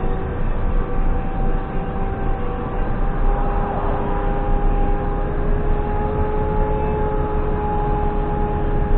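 JCB 3CX backhoe loader's diesel engine running steadily under work, with a whine that rises slightly in pitch over the seconds.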